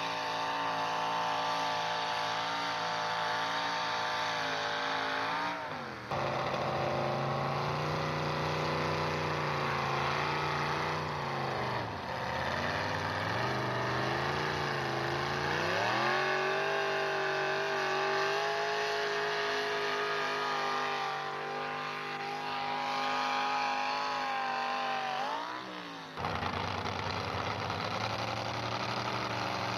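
Pulling truck's engine running hard at high revs under load. The engine note drops suddenly about six seconds in, sags and climbs back about halfway through, and changes abruptly again near the end, as the engine bogs and recovers on the pull.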